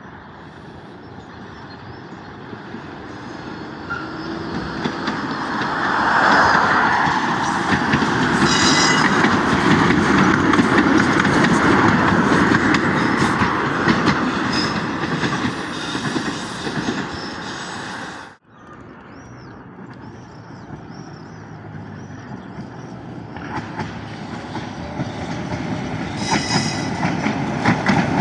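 Tatra T3DC1 tram running on its rails, the wheel and rail noise growing louder for several seconds, staying loud, then fading. The sound cuts off abruptly about two-thirds of the way through and builds up again toward the end, with brief high-pitched tones about nine seconds in and near the end.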